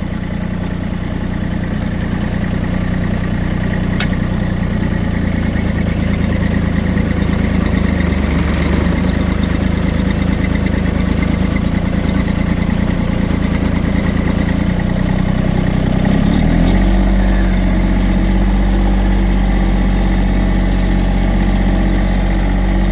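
Small Massey Ferguson tractor engine running steadily while working with debris forks. Its tone shifts lower about two-thirds of the way through.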